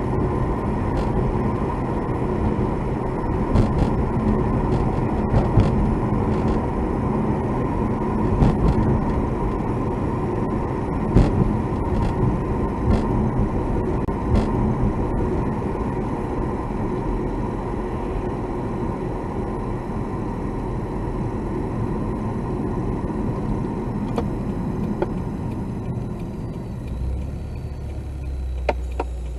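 Car cabin noise while driving: steady engine and road rumble with a hum, and scattered short sharp ticks from inside the car, which may be the abnormal noise being recorded. About 27 seconds in the rumble settles into a steadier low hum, as the car slows.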